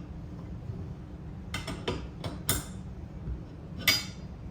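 A few irregular sharp metal clicks and clinks of a wrench working a nut onto a bolt on a steel cart frame, being tightened down, over a steady low background hum.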